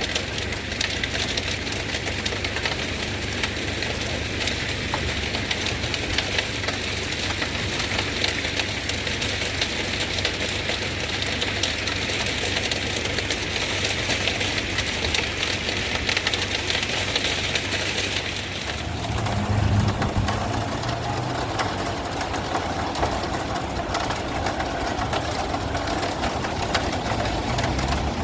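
Heavy truck engine running with a low drone under a steady high hiss; the hiss cuts off about two-thirds of the way through, and the engine's drone then comes up louder.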